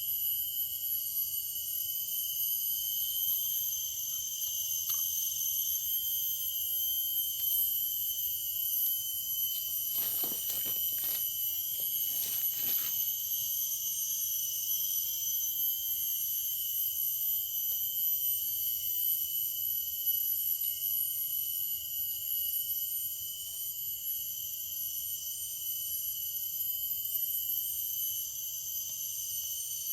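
A steady, unbroken high-pitched insect chorus, several shrill tones held without a break, with a few faint rustles or knocks about ten to thirteen seconds in.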